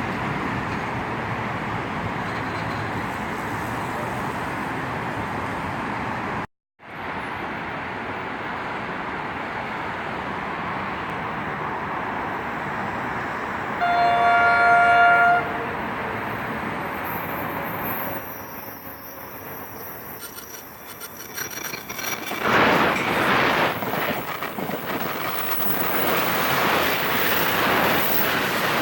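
A passing train's steady running noise on the rails, with one train horn blast of about a second and a half near the middle. The noise cuts out completely for a moment about six and a half seconds in, dies down later, then swells again near the end.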